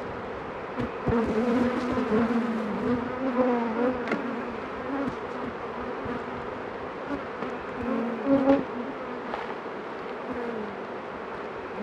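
Honeybees buzzing around an opened hive. Bees fly close past the microphone, and the drone wavers in pitch and swells loudest about a second in and again near the eight-second mark. A few faint clicks are heard.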